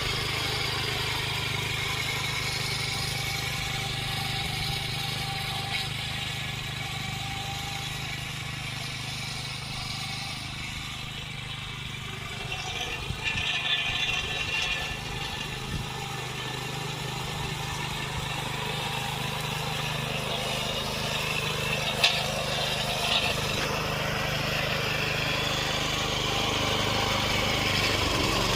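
The small engine of a repowered David Bradley walk-behind tractor running steadily, with a spell of rattling about halfway through and one sharp knock later on.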